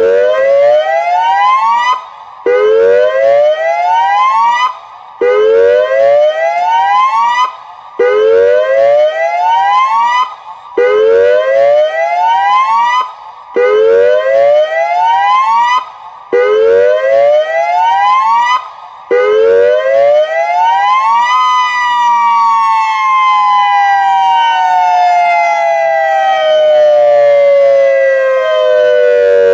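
Federal Signal Modulator 6024B electronic outdoor warning siren sounding its hazmat test tone: eight rising whoops, each climbing in pitch and cutting off about every two and a half seconds. After about 21 s the last whoop gives way to one long, slowly falling wind-down.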